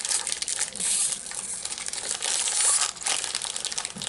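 Crinkly packaging of a soft chocolate cookie being handled and torn open, a dense run of crackling that never lets up.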